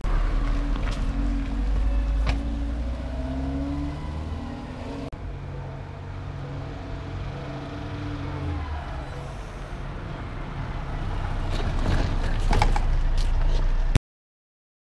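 Small car (VW Polo Vivo) engine running as the car drives on the road, with a steady low engine note whose pitch shifts as it goes. The sound grows louder near the end as the car approaches, then cuts off abruptly.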